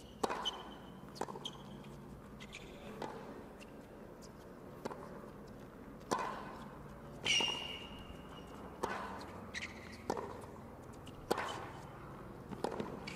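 Tennis rally on a hard court: racket strikes on the ball about every second and a half, with sneakers squeaking sharply on the court surface between shots.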